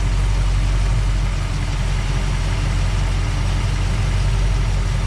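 Car engine idling steadily with the radiator cap off while the cooling system is burped of trapped air.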